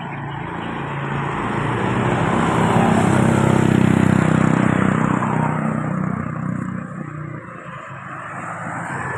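A motor vehicle's engine passing by, growing louder to a peak about three to four seconds in, then fading away.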